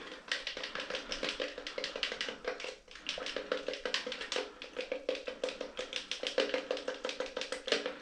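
A stirring stick mixing two-part fibreglass resin and hardener in a measuring cup, knocking and scraping against the cup's sides in quick, irregular clicks with a ringing note, pausing briefly about three seconds in.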